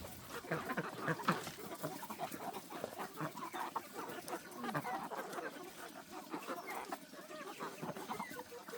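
A flock of chickens clucking, with many short calls overlapping without a break.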